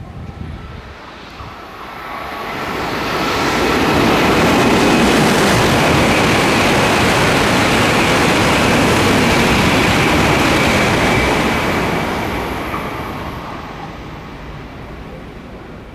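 A coupled Tohoku Shinkansen train passing at speed. Its rushing noise builds over a couple of seconds and stays loud for about seven seconds, with a faint high whine on top, then dies away as the train recedes.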